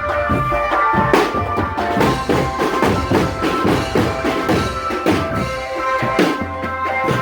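Marching drum band playing: snare and bass drums beating a steady rhythm under a melody of held notes.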